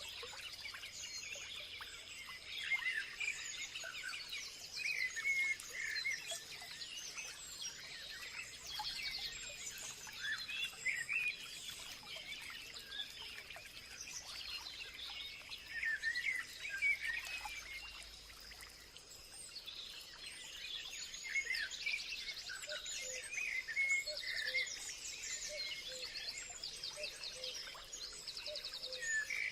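Many birds chirping and singing at once, short varied calls and quick trills overlapping, over a constant thin high tone.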